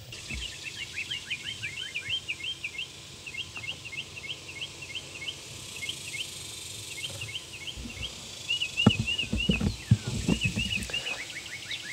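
Birds singing outdoors: a rapid run of short, repeated chirping notes, with a few low thumps between about eight and ten and a half seconds in.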